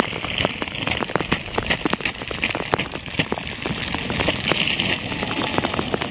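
Sleet and freezing rain pelting down, a dense crackle of many small ice pellets ticking against surfaces close to the microphone.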